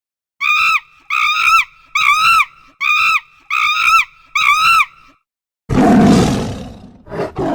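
Animal calls: six short, wavering, high-pitched cries about two-thirds of a second apart, then a much louder, rough roar-like call starting near the end.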